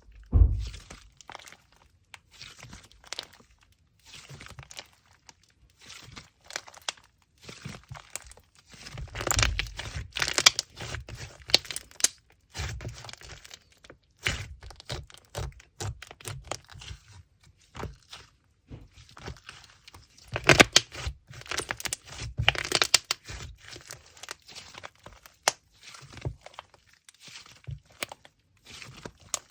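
Packaging of a slime box being handled and unwrapped: irregular crinkling, tearing and crackling, with a thump just after the start and two busier stretches of rustling.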